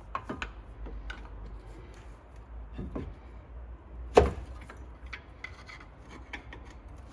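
Scraping and small clicks of metal on metal as the pistons of a Brembo brake caliper are pushed back into their bores, with one sharp knock about four seconds in.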